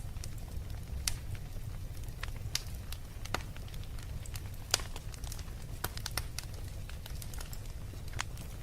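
Wood fire crackling in a fireplace: irregular sharp pops and snaps over a steady low rumble, with the loudest pop a little under five seconds in.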